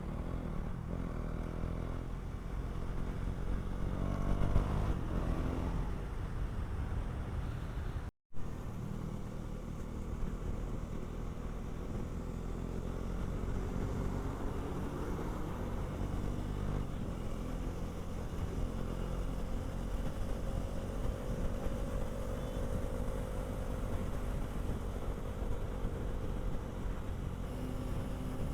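Motorcycle engine running at speed: its note climbs as it accelerates over the first few seconds. After a brief dropout about eight seconds in, it cruises with the pitch slowly rising, over a heavy low rumble.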